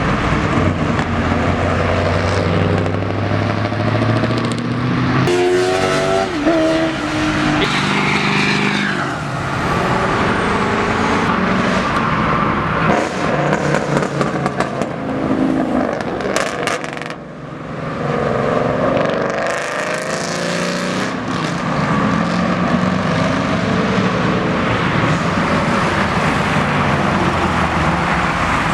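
Several cars' engines running and revving as they pull away and drive past, with the revs rising sharply around six and nine seconds in and again around twenty seconds in.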